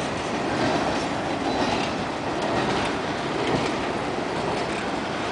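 Freight train boxcars rolling past at close range: a steady noise of steel wheels on the rails, with faint irregular clicks.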